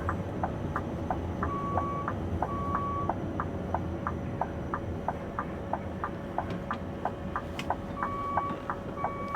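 Turn-signal indicator in the cab of a Scania V8 lorry ticking steadily, an alternating tick-tock about three clicks a second, over the low rumble of the V8 engine running as the lorry waits at a junction.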